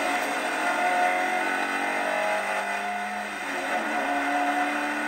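In-car recording of a Hyundai Excel race car's engine running under load on track, heard from inside the cabin. Its pitch falls and climbs again about midway.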